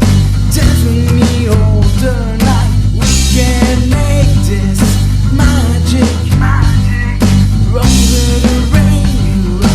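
Instrumental passage of a rock song: drum kit, bass and guitar playing, with a lead melody that slides and bends in pitch.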